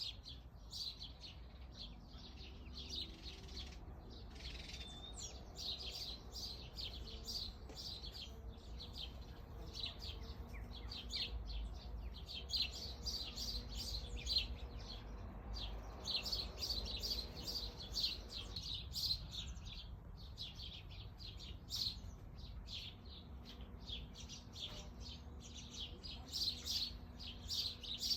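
Garden songbirds twittering: a dense jumble of rapid, high chirps from several birds, with a low rumble underneath.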